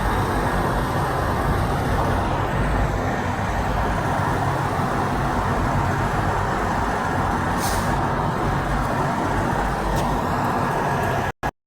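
Steady heavy road traffic, with trucks and cars running past and no horn blowing. A short hiss comes through near the eight-second mark, and the sound cuts out just before the end.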